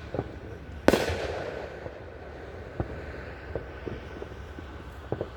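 A firework shell bursting with one loud bang about a second in, echoing away over the next couple of seconds, followed by a few fainter pops.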